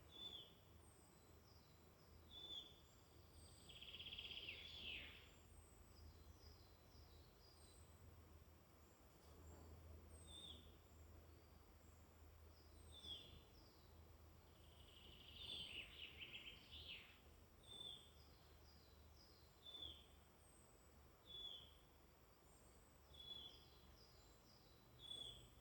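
Woodland songbirds calling faintly: a short call repeated every couple of seconds, with two longer trilled phrases about four seconds in and again after about sixteen seconds, and thin high notes in between, over a low steady rumble.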